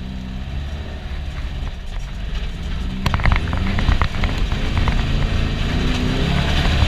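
VW Beetle's air-cooled 1641cc flat-four engine running under load, heard from inside the cabin, its pitch dipping and rising as it revs and getting louder. From about three seconds in, a series of sharp knocks and rattles joins it.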